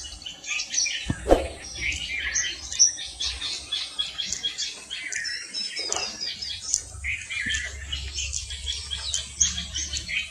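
Indian pond heron bird sound: many short, high chirps and squawks overlapping throughout, with a few brief knocks and a faint low rumble under them.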